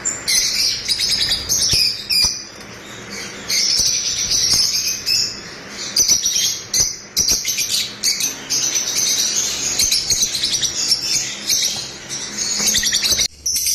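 Lovebirds chirping: a dense, continuous chatter of high, rapid chirps and squeaks from several birds, with brief lulls.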